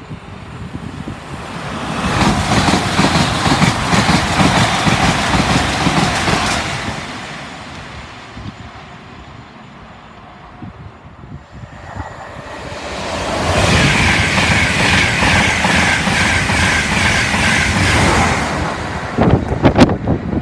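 Two LNER Azuma high-speed trains pass at speed one after the other, each a rush of wheel and air noise that swells and fades; the first is Class 801 unit 801211. A high whine runs through the second pass.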